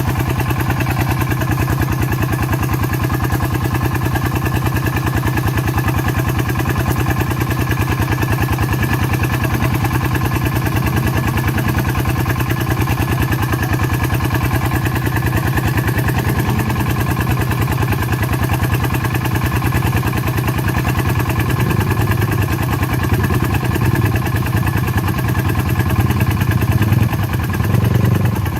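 Farm diesel engine running steadily with a regular rapid chugging, growing somewhat louder over the last several seconds as it works harder.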